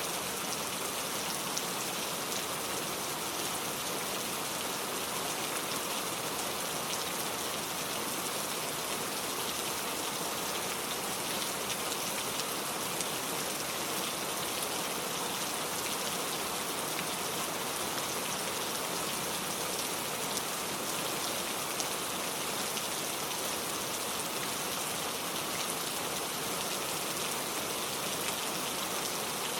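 Steady rain falling in a forest, an even patter of drops on leaves and ground.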